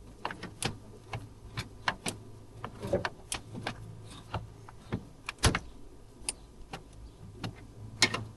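Irregular metallic clicks and clinks of hand tools working at a stubborn small screw, a few a second, with a sharper knock about five and a half seconds in.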